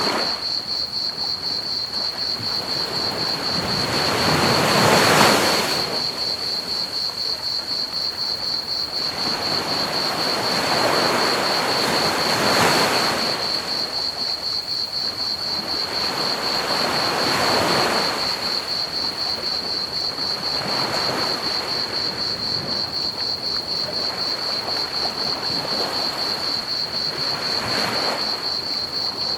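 Ocean waves breaking on a beach, one swell rising and falling every five to seven seconds, the biggest about five seconds in, over an even hiss of pink noise. A steady high trill of chirping crickets runs on top throughout.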